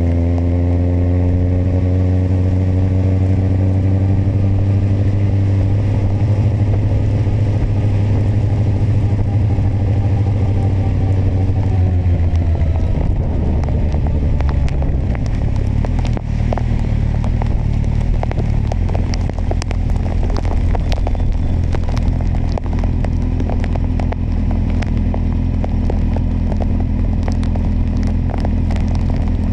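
Kawasaki motorcycle engine slowing down, its note falling steadily for about a dozen seconds, then settling into a steady low run. Sharp crackles and taps are scattered through the second half.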